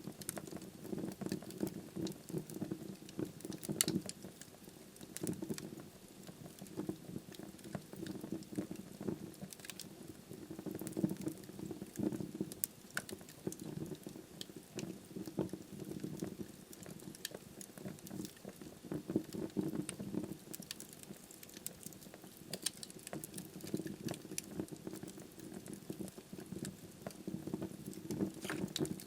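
Wood fire burning in a fireplace: logs crackling continuously with many small sharp pops, and a soft low rumble of the flames underneath.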